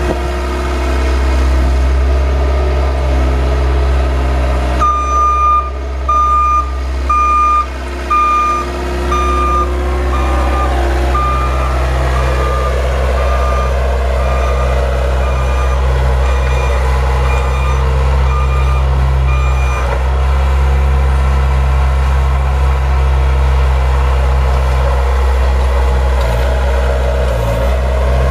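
A vehicle's engine running steadily, with a reversing alarm beeping at a little more than one beep a second for about fifteen seconds as it backs up during plowing; the beeps fade before stopping.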